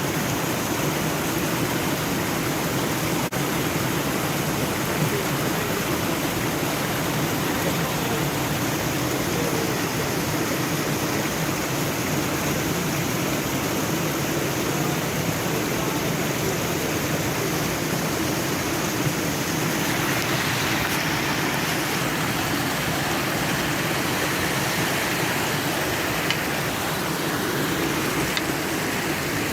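Stream water flowing steadily, a constant rushing hiss that grows brighter about two-thirds of the way through.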